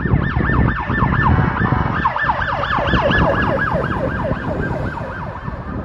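Emergency vehicle siren in a fast yelp, its pitch sweeping up and down about four times a second over a low rumble.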